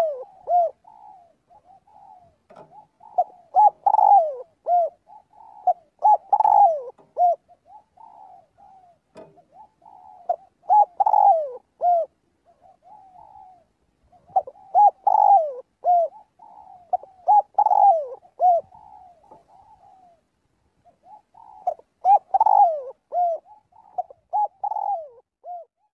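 Spotted dove cooing: about seven phrases of several short coo notes, one every few seconds, each with a louder note that falls in pitch.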